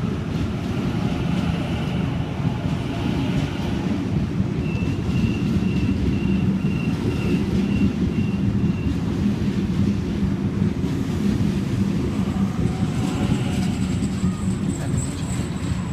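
Sydney Trains Waratah electric train pulling into the platform: a steady low rumble, with a thin high-pitched whine held for about four seconds midway through.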